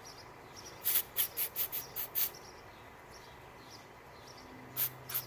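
Aerosol can of starting fluid sprayed into a small snowblower engine: six short hissing squirts in quick succession about a second in, then a few more near the end.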